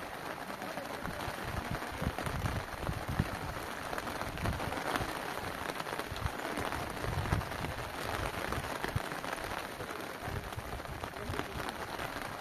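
Steady rain falling, with irregular low rumbles of wind gusting on the microphone through the middle.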